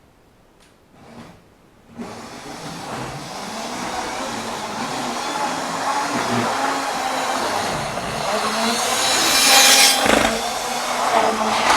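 Model train running on the layout track: electric motor hum with wheels rolling and rattling over the rails, starting suddenly about two seconds in and growing louder, loudest a little before the end as it passes close.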